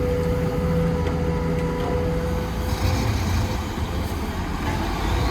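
Heavy construction machinery's diesel engine running steadily, with a steady whine over it that stops about two and a half seconds in.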